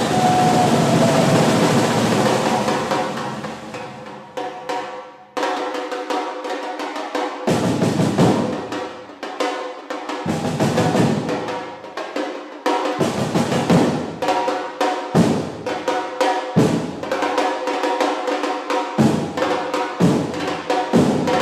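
Drum-led music with snare rolls and bass drum beats over a sustained melody. It fades and breaks off about five seconds in, then the drumming comes back in a steady rhythm.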